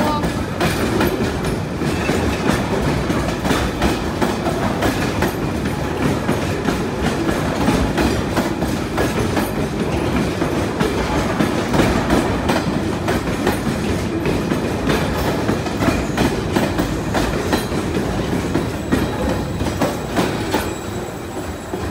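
Intermodal container freight train rolling past close by: a steady rumble of steel wagon wheels on the rails with clickety-clack over the rail joints, easing off near the end as the last wagons go by.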